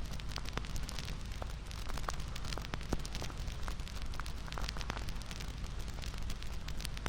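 Crackling bonfire: a steady low rumble of burning with frequent, irregular sharp pops and snaps.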